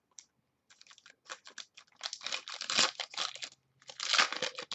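Trading cards and their plastic packaging being handled up close: irregular crinkling and rustling, with two louder stretches of crackle, one in the middle and one near the end.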